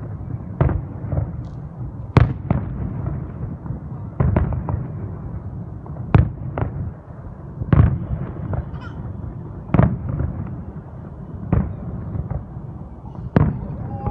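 Fireworks display: aerial shells bursting with sharp bangs, about a dozen spaced one to two seconds apart, over a steady low background rumble.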